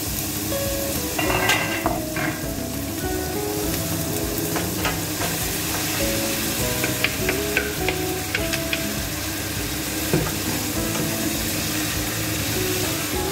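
Chicken frying and sizzling in a stainless steel pot, stirred with a wooden spoon, with scattered light clacks as pieces are tipped in about midway. A soft melody of background music plays underneath.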